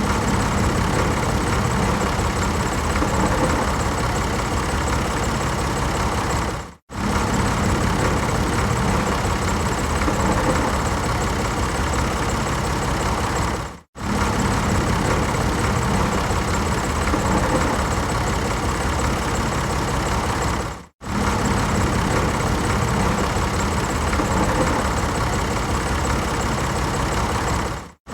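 Tractor engine running steadily, cutting out abruptly to silence for a moment about every seven seconds, three times.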